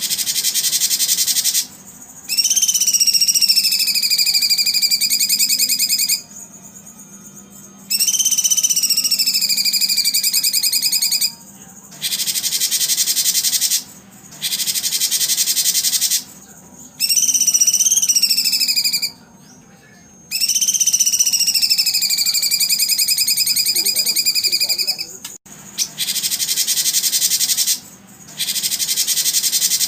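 Loud, high-pitched buzzing animal calls in repeated bursts of two to four seconds with short pauses between them. Over several bursts a clear whistled call glides down and then holds steady.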